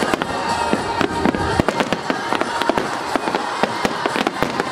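Fireworks display in full barrage: aerial shells bursting in rapid, overlapping bangs, several a second, over a continuous rumble of the show.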